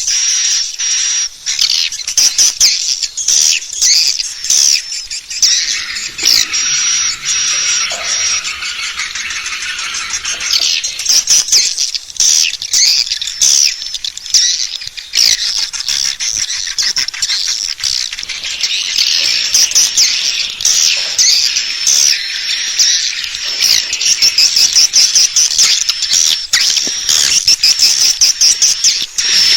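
Swiftlets calling: a dense, fast, unbroken stream of high, sharp chirps and twittering clicks.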